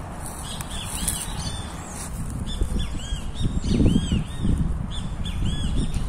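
Birds chirping: short, arched notes repeated many times throughout. Under them runs a low rumbling noise on the microphone, which gets loudest a little past halfway.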